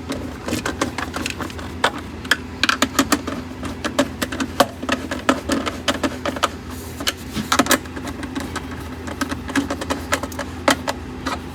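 Irregular clicking and clinking of hand tools and small metal parts being handled, many sharp clicks in quick succession, over a faint steady hum.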